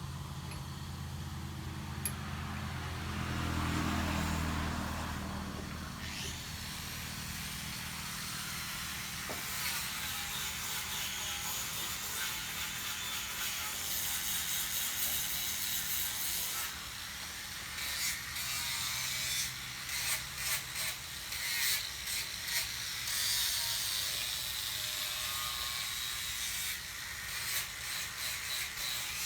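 Tool work on wood: irregular short strokes, denser in the second half, over a low steady hum in the first few seconds.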